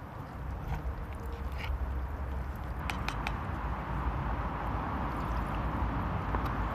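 Wood fire crackling in a small folding stove, with a few sharp pops about three seconds in and a steady low rumble underneath.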